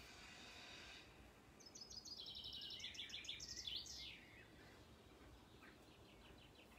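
A bird singing, faint: a fast run of repeated high notes, ending in a falling sweep about four seconds in, then fainter, scattered notes. A faint high hiss fades out about a second in.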